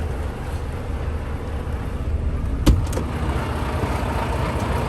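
Semi truck's diesel engine idling with a steady low rumble, with a sharp click about two and a half seconds in and a fainter one just after.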